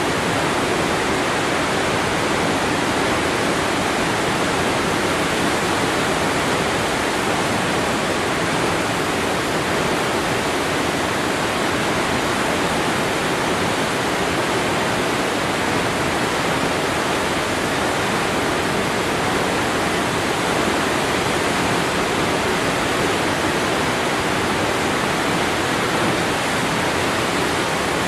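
Waterfall: a steady, unbroken rush of falling water with no pauses or separate splashes.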